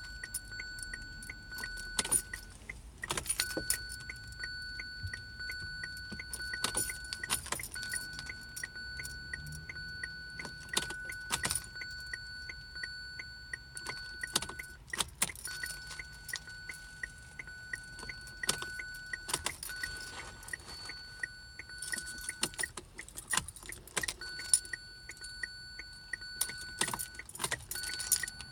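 Keys jangling, with many sharp clicks throughout. Under them a steady high electronic tone sounds for a few seconds at a time, breaks off and comes back, several times.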